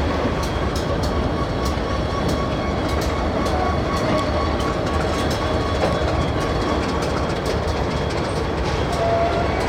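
Diesel locomotives rolling at low speed, engines running with a steady low hum, wheels clicking repeatedly over rail joints.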